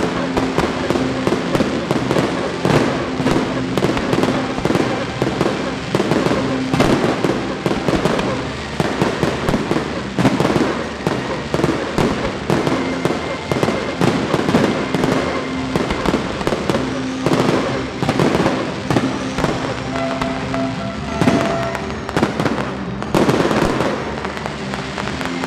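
Fireworks display: a dense, unbroken barrage of aerial shell bangs and crackling bursts.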